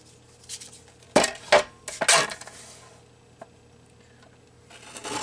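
A few sharp clicks and clinks from craft tools being handled while paper is trimmed: three close together about a second in, and more near the end.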